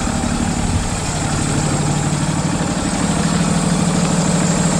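Semi-truck's diesel engine running steadily at idle, a constant low hum with engine noise.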